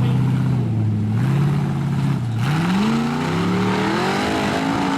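Ford engine of an off-road rock buggy revving hard under load: the pitch holds high for about two seconds, then climbs steadily through the rest.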